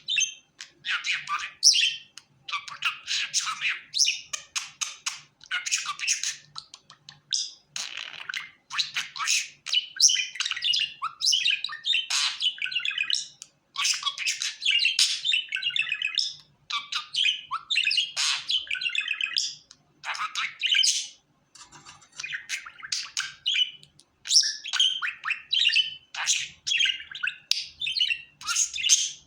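Pet budgerigar chattering and warbling on and on: fast, scratchy chirps and squeaks in rapid runs, broken by a few short pauses.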